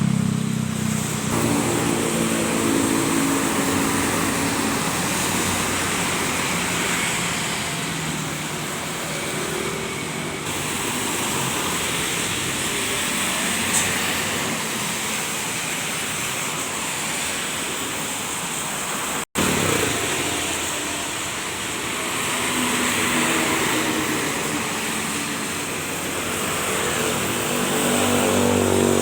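Road traffic in the rain: trucks driving past with their engines swelling and fading several times over a steady hiss of tyres on a wet road.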